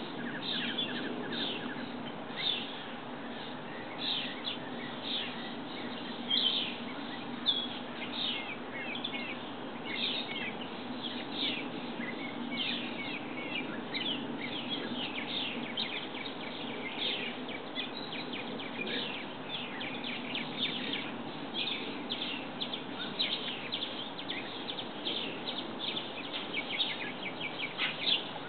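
Small songbirds chirping continuously: many short, quick, falling chirps, one after another, over a steady low background hum.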